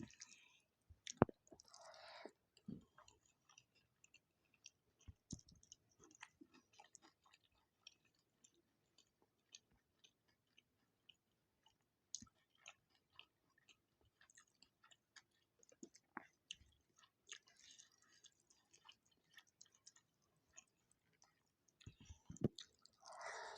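Close-miked, faint chewing of food with many small wet mouth clicks and smacks, and one sharper tick about a second in.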